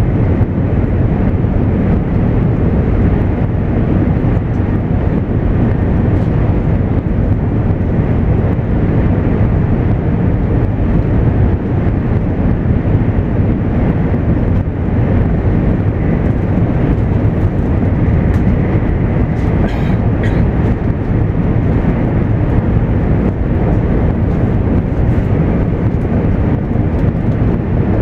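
JR East 200 series Shinkansen train running, heard from inside the passenger cabin: a steady, loud, low rumble of the train in motion.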